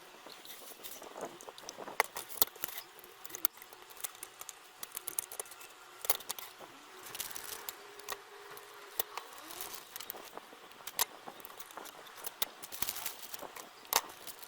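Irregular light clicks, taps and small metallic rattles of hand tools and small parts being handled at a workbench, with a few sharper clicks standing out.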